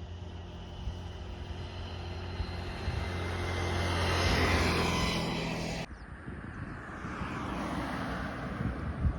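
A steady engine hum, growing louder over the first few seconds, cuts off abruptly about six seconds in. It gives way to a rushing outdoor noise with a few light knocks.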